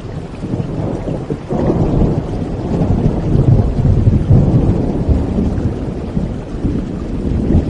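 Thunderstorm: steady rain with a long roll of thunder. The low rumble builds about a second and a half in, is loudest around the middle, and slowly fades.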